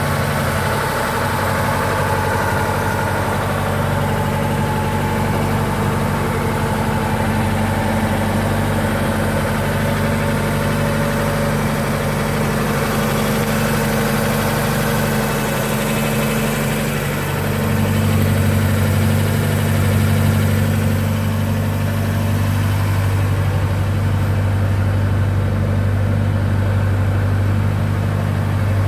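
Ford Capri 1600's engine idling steadily, growing somewhat louder about two-thirds of the way through.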